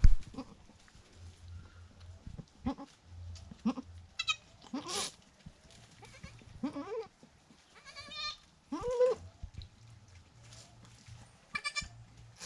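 Goats bleating about six times, short high thin calls, typical of a newborn kid, mixed with lower rising calls, typical of the doe. A sharp knock sounds right at the start.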